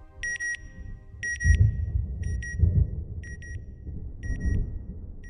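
Electronic beeping: pairs of short, high beeps repeating about once a second, over a low rumble.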